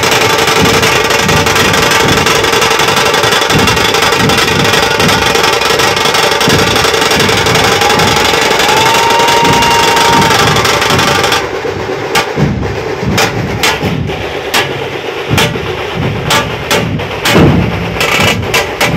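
Dhol-tasha troupe drumming: loud massed dhol beats under a wash of cymbals and tasha rolls. About eleven seconds in the wash drops away, leaving dhol beats and sharp tasha cracks.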